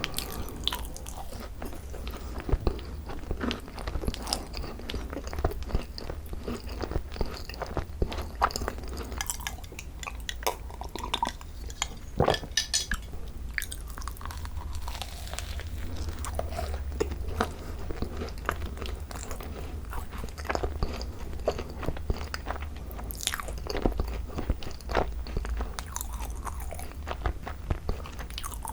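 Close-miked chewing and biting of thick-cream Korean macarons (ttungkaron): light crunches of the shells and soft, sticky chewing, with many short clicks.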